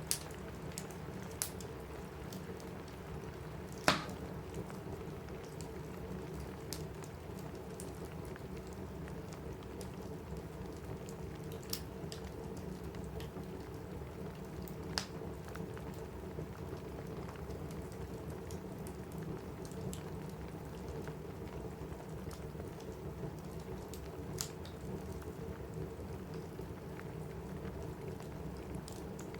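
Steady rain with a crackling wood fire, the fire giving a sharp pop every few seconds; the loudest pop comes about four seconds in.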